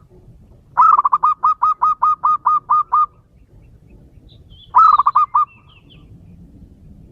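Male zebra dove (perkutut) cooing: a quick run of about a dozen short coos over two seconds, then, about two seconds later, a shorter run of about six.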